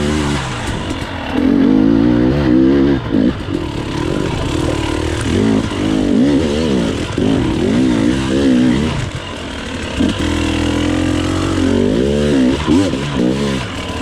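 Dirt bike engine revving up and down over and over as the rider blips and rolls the throttle through tight woods, with a short easing off about two-thirds of the way in.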